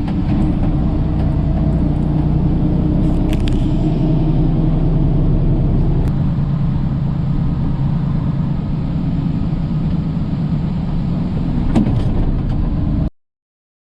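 Steady road and engine noise of a moving vehicle, with low droning tones and a few faint clicks. It cuts off abruptly into silence near the end.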